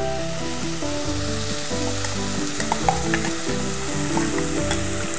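Hot oil with frying onions sizzling in a stainless steel pan as a wet green masala paste is poured in, with a few sharp pops about three seconds in. Background music plays underneath.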